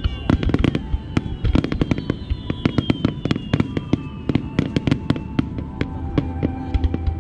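Starmine fireworks barrage: a rapid, continuous run of aerial shell bursts, several bangs a second, with high whistling tones sliding downward over them.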